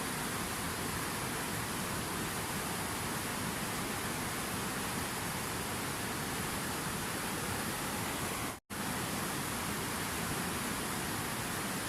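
Steady rushing water: an even, unbroken hiss, with a brief drop to silence about two-thirds of the way through.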